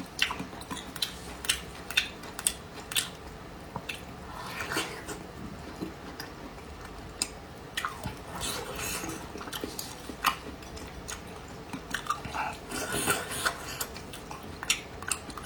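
Close-miked chewing and biting of stewed cured pork, with scattered sharp clicks of utensils against a dish.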